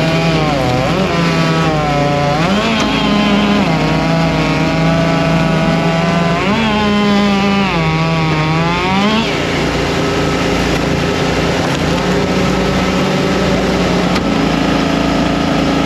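Small gas engine of a log splitter running under varying load, its pitch sagging and recovering several times as the hydraulics work, then holding steadier in the second half, with other engines running in the background.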